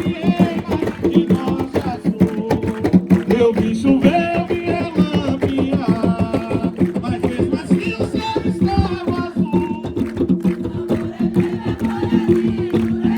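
Afro-Brazilian religious chant: voices singing over fast, dense hand-drum beats.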